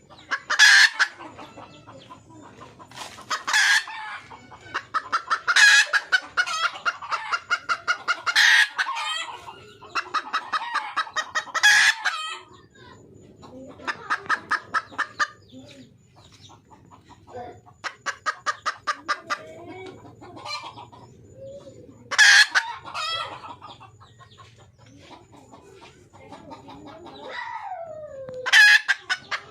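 Red junglefowl hen calling for a mate: fast runs of clucks, broken every few seconds by loud, sharp cackling calls, with one falling call near the end.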